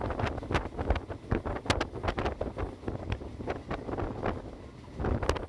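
Wind buffeting the microphone from a train in motion, over the train's running rumble, with rapid irregular clacks and knocks from the wheels on the track.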